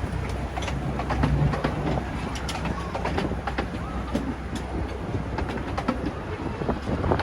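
Miniature railway train running: a steady low rumble with irregular clicks and clacks of the wheels on the track.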